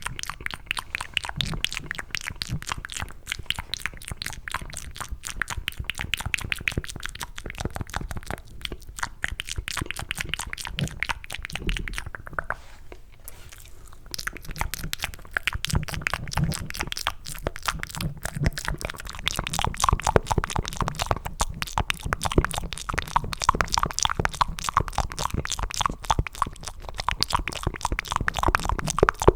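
Cupped ASMR mouth sounds: fast, wet clicking and smacking of tongue and lips, made to sound like eating macaroni and cheese, with a brief pause about halfway through.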